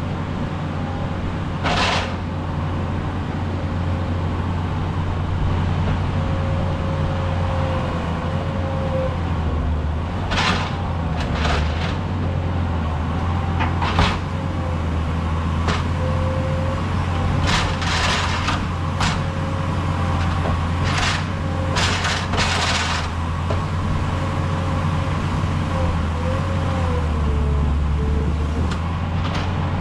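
Skid steer engine running steadily under a whine that rises and falls in pitch as the machine works. Short sharp knocks and clanks come and go, most of them in the middle of the stretch.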